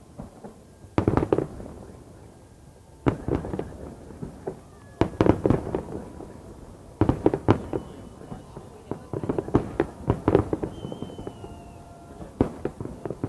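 Fireworks salute going off in clusters of sharp bangs with crackling, about every two seconds.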